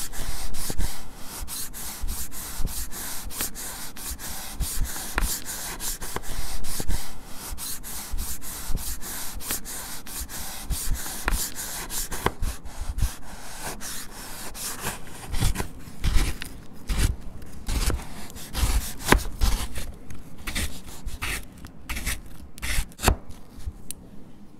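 A Lush Eskimo bubble bar being cut: a dense, crumbly scraping and crackling that thins out about half-way through into separate crunches and light knocks.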